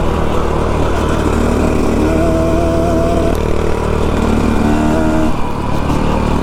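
Dirt bike engine running under way, its pitch holding steady for a second or so at a time, then dropping off as the throttle changes, a few times over.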